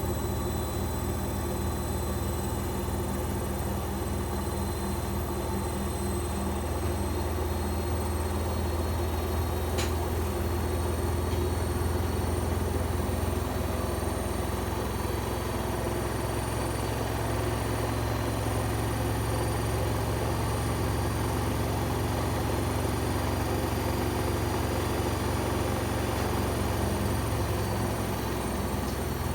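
Bosch Avantixx 7 washing machine running steadily, most likely in its spin, with a continuous motor and drum hum whose pitch steps up a little about twelve seconds in.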